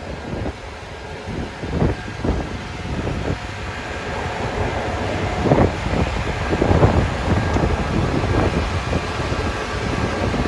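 Strong gusty wind buffeting the microphone, a low rumbling noise that swells and fades irregularly, over the steady noise of street traffic.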